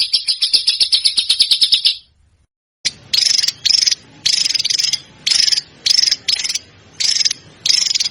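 Small songbird calling, as recorded for bird-song training: a fast, high trill of sharp repeated notes, about ten a second, stops about two seconds in. After a short pause comes a run of short, buzzy, high-pitched notes, one or two a second.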